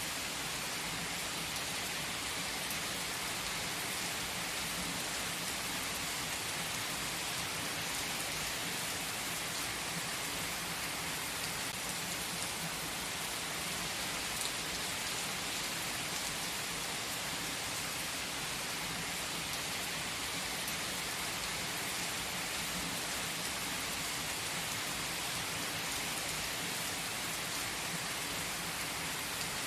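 Steady rain-like hiss with faint fine patter, even and unbroken throughout.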